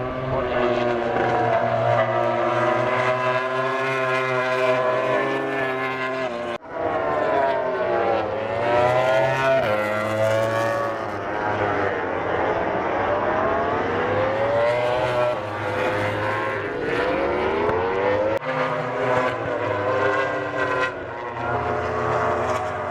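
MotoGP racing motorcycles at full race pace, their engines revving and passing, the pitch climbing and falling as bikes go by and shift gear. The sound breaks off sharply twice, about six and a half seconds in and near eighteen seconds in.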